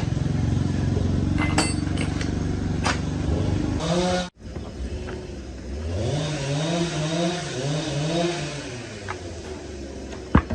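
A small engine running steadily. After an abrupt cut, it is revved up and down in short repeated swells.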